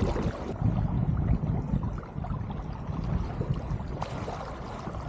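Water gurgling and rushing along the hull of an Elliott 7.4 sailing keelboat under way, an uneven, continuous noise.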